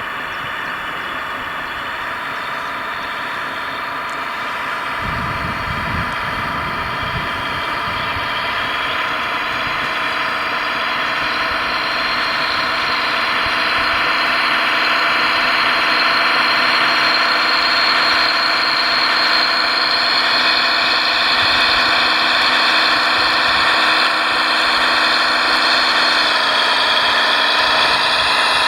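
Radio-controlled model construction machine running: a steady mechanical hum with several whining tones that grows gradually louder, with a slight drop in pitch near the end.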